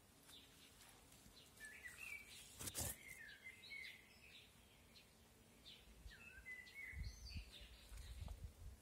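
Faint birdsong: a small bird giving short chirps and pitch-gliding phrases in two spells, with a single sharp click a little under three seconds in and a low rumble on the microphone near the end.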